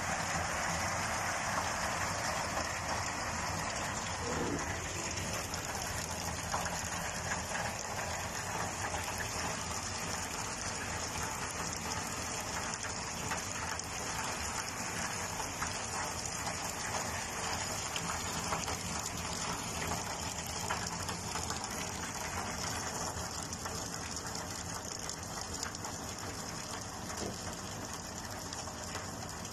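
Steady rain falling, easing slightly toward the end.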